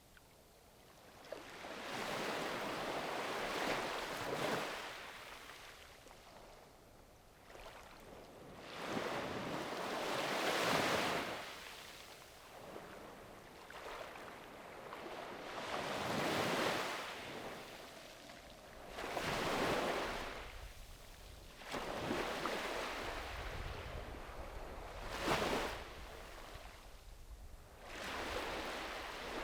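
Sea waves washing onto a beach. Each wave swells into a hiss and then fades, about six times, every few seconds.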